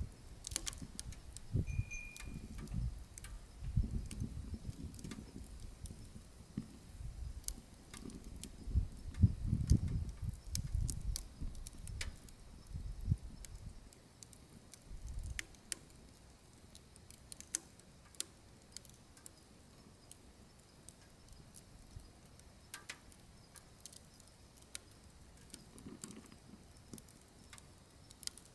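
Burning wood crackling, with frequent sharp ticks and pops. Irregular low rumbling runs under it through the first half and dies away about halfway through.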